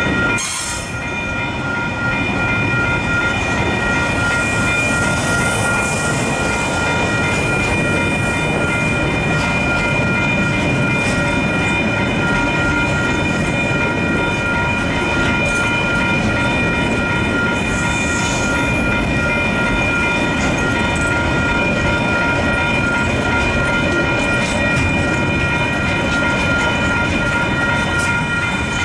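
Train of rail wagons rolling past behind a KiwiRail DSG diesel locomotive: a steady loud rumble and rattle of wheels on rail with occasional clacks. A constant high-pitched ringing tone runs over it.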